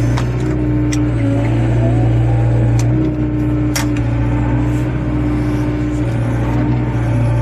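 Excavator's diesel engine running steadily under load, with a wavering hydraulic whine and a few sharp metallic clicks, the loudest about four seconds in.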